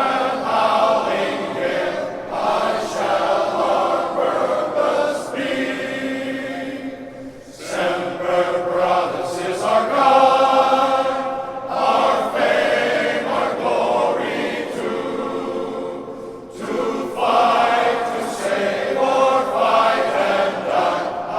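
Men's glee club choir singing in sustained phrases, with brief breaks between phrases about seven and sixteen seconds in.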